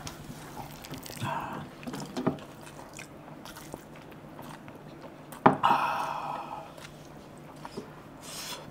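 A man chewing a huge mouthful of rice and curry, with wet mouth noises. There is a sharp click about five and a half seconds in, followed by a short muffled voice sound through the full mouth.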